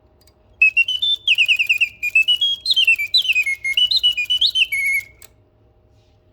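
1950s mechanical singing bird whistling a warbling birdsong of rapid trills and downward-sliding chirps. It lasts about four and a half seconds and stops abruptly.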